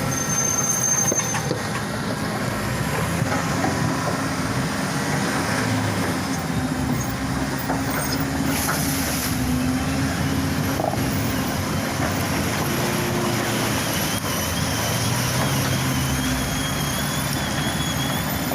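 Four-wheel-drive pickup truck engine running under load in deep mud, its note rising and falling.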